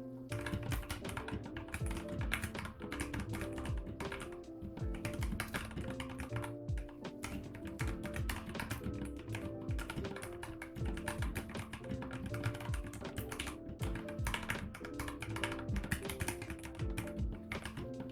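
Typing on a mechanical keyboard with Gateron Brown switches, a fast, irregular run of key clicks and bottom-outs that does not let up, over lo-fi background music.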